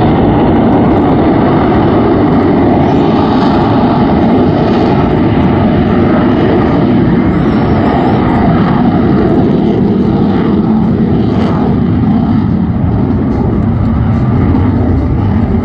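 Aircraft engine noise, loud and steady, with most of its weight low in pitch.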